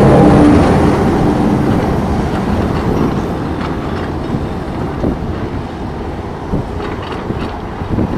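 NJ Transit ALP-45DP locomotive and commuter train passing close by and pulling away, the engine and wheel noise loud at first and then fading steadily as it recedes.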